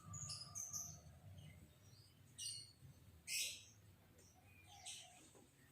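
Lovebirds chirping: a handful of short, shrill chirps spaced apart, the loudest about three and a half seconds in.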